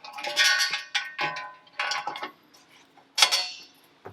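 Metal exhaust pipes knocking together and being set down, clanking and ringing. There are about four hits, and the loudest comes about three seconds in.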